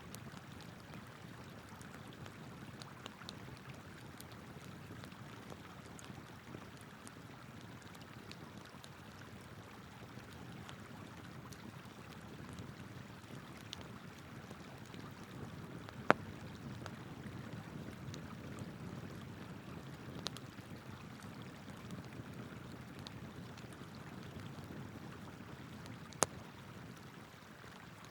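Wood campfire crackling with scattered sharp pops, three of them loud, over the steady rush of a flowing river.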